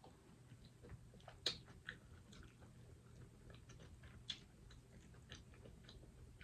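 Faint close-up chewing and mouth sounds of someone eating, with scattered soft clicks and a couple of sharper ones.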